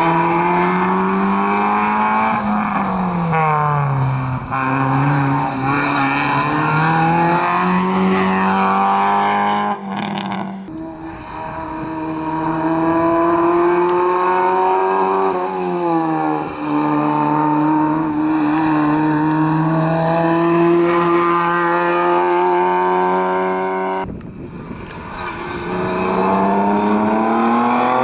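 Rally cars at full throttle, engine revs climbing and dropping again and again through gear changes. The sound breaks off abruptly twice, about ten seconds in and near the end, and another car's engine takes over.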